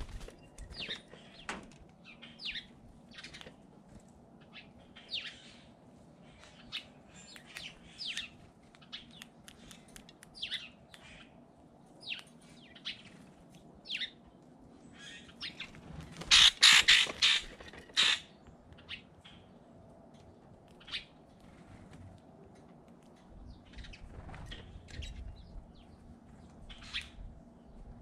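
Small birds chirping, with short calls every second or so and a louder cluster of calls about sixteen seconds in that lasts a couple of seconds.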